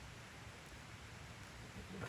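Faint, steady hiss of a small wood fire burning in a Picogrill folding fire pit, with no distinct pops.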